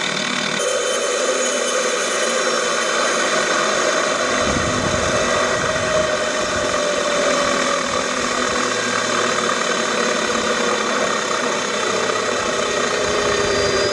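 Radio-controlled scale helicopter running: a steady engine-like drone with many fixed tones and one slowly drifting tone, with a deeper rumble joining about four seconds in.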